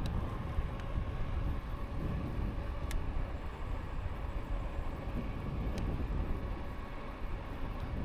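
Riding an e-bike: wind and road rumble on the microphone with a faint steady whine from the electric motor. Two faint ticks, about 3 s and 6 s in.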